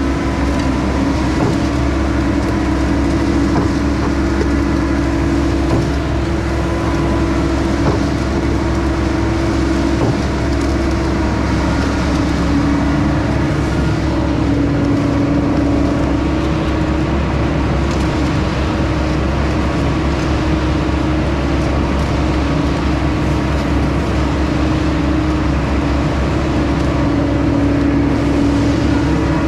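Heavy equipment engines running steadily: the skid steer driving the hydraulic Mud Demon concrete pump, with a concrete mixer truck.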